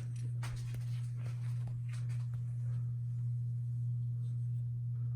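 Casablanca Victorian II ceiling fan running, its motor giving a steady low hum, with a few faint ticks in the first two seconds.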